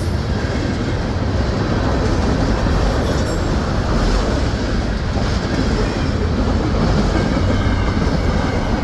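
CSX freight train passing at high speed: a steady, loud rumble and rush of steel wheels on rail and rattling cars.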